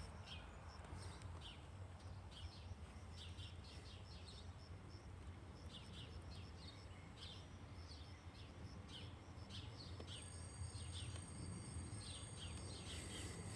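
Small birds chirping, many short chirps in quick succession, over a low steady rumble; a thin steady high tone joins about ten seconds in.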